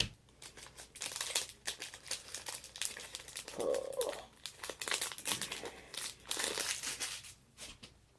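Plastic wrapping and packaging on a Topps Inception trading-card box crinkling and rustling as it is cut and pulled open by hand, in a run of irregular scratchy crackles.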